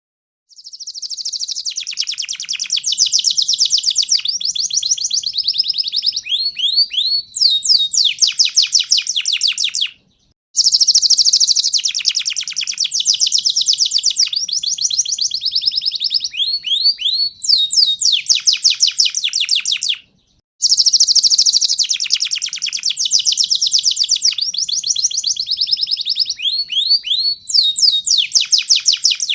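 Domestic canary (pied 'panda' variety) singing its long song of rapid rolling trills and quick sliding whistles. It comes in three bouts of about ten seconds, each broken off by a brief pause.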